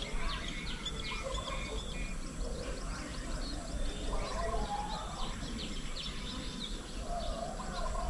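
Several wild birds calling together: quick, high chirps repeat over lower, warbling calls.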